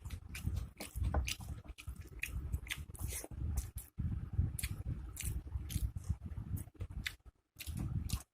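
Close-miked eating: wet chewing and squishing of rice and curry, with frequent short crunches and lip smacks as crisp fried pakoras are bitten.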